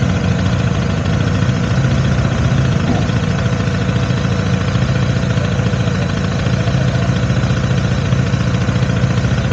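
Motorcycle engine running steadily at low revs, an even low rumble.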